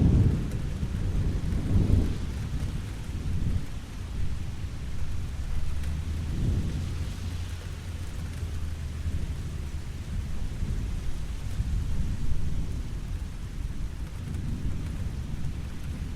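Steady rain falling, with deep rolling thunder rumbling underneath that swells several times, strongest near the start.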